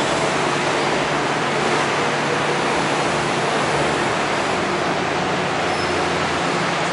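Steady rushing running noise of a moving MTR train, with a faint low hum underneath and no change in level.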